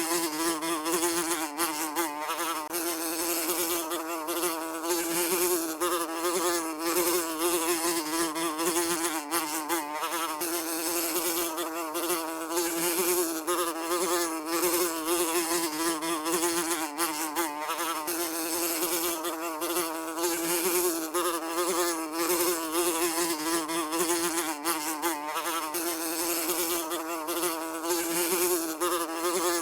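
A fly buzzing continuously, its pitch wavering slightly up and down as it flies.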